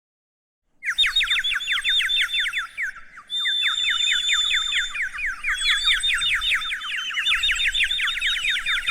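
Chicks peeping: a dense stream of rapid, overlapping high cheeps, each sliding downward in pitch, starting about a second in with a short lull around three seconds in.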